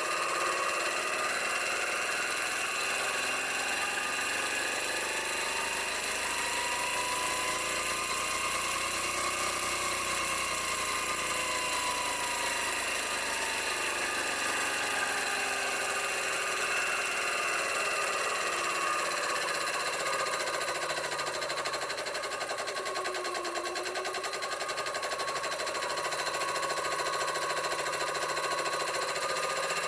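Cornelius 3000 PSI high-pressure air compressor, driven by an electric motor on a variable-frequency drive, running steadily while it pumps air at low pressure. Part of its whine rises slowly in pitch over the first ten seconds or so, then falls back.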